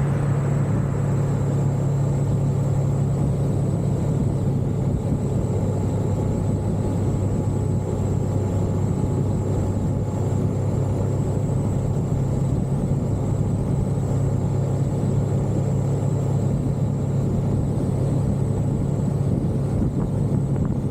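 Motorcycle engine running at a steady pace on the road, a constant low hum with no rise or fall in revs. A thin, steady high-pitched whine sits above it.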